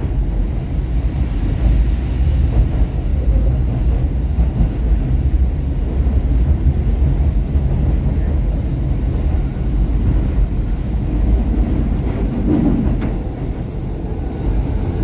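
Market-Frankford Line M-4 subway-elevated train running between stations, heard from inside the car: a steady low rumble of wheels on rail and running gear. A brief whine rises about twelve seconds in.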